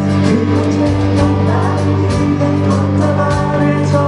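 Amateur band playing live: amplified electric instruments over a steady drum beat, with held chords and notes.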